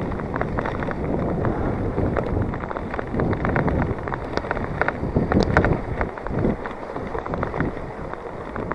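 On One Parkwood aluminium hardtail 29er mountain bike ridden over a rough, rooty, muddy trail: tyres rumbling and the bike rattling, with frequent clicks and knocks, and wind buffeting the microphone.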